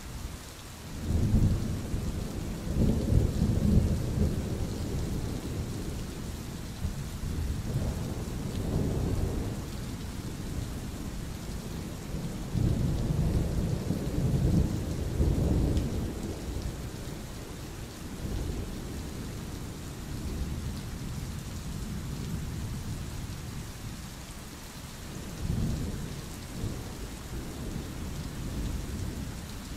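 Steady rain with thunder rolling over it: low rumbles that swell and fade, the strongest about a second in and again around thirteen to sixteen seconds in, with smaller ones in between and near the end.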